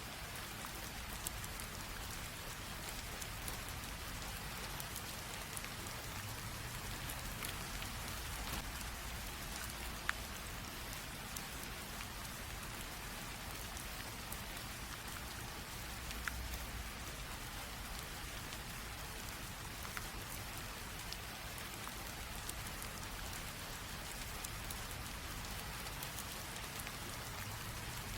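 Steady light rain falling on a surface, an even hiss with scattered individual drop ticks, the sharpest about ten seconds in and again about sixteen seconds in.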